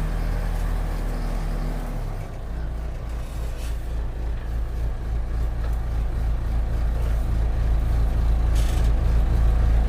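Backhoe's diesel engine running under work. About two seconds in its note drops and turns to a pulsing throb, then it grows slowly louder.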